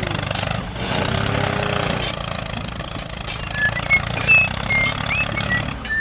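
A small tractor engine idles steadily. In the second half a few short, high chirps sound over it.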